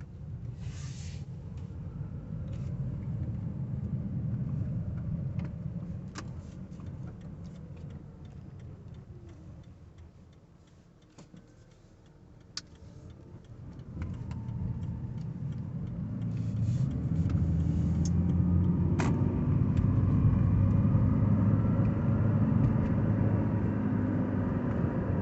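Cabin noise of a 2010 Toyota Prius on the move: low road rumble fades almost to quiet about ten seconds in, then builds again into a louder, steady low drone from about seventeen seconds in as the 1.8-litre petrol engine kicks in alongside the hybrid battery drive. Small scattered clicks are heard throughout.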